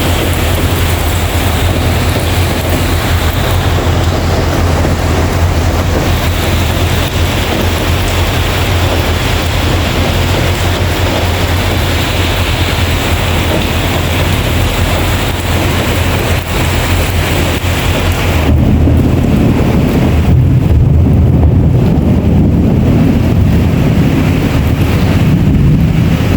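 Heavy rain falling, a loud, even hiss over a steady low rumble. About two-thirds of the way in, the hiss drops away and a deeper rumble takes over.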